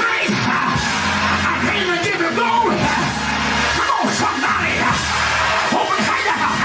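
Loud live church music with voices yelling and singing over it.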